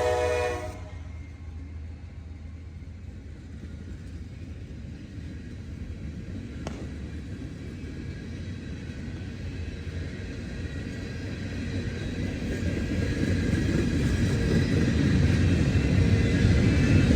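Train horn sounding and cutting off under a second in, then a passing train's low rumble growing steadily louder as it approaches.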